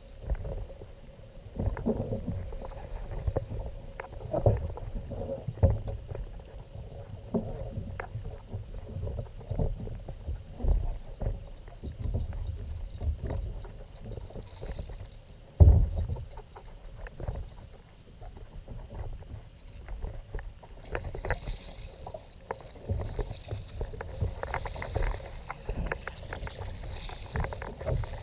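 Kayak moving on the water: irregular splashing and low knocks against the hull, with one louder thump about halfway.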